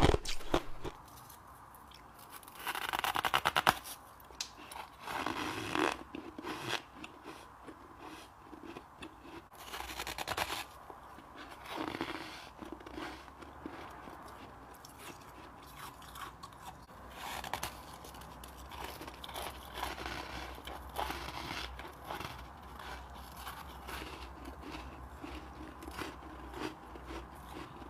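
Humidifier frost and ice being bitten and chewed, with short crunching and scraping bursts every few seconds, the loudest about three seconds in.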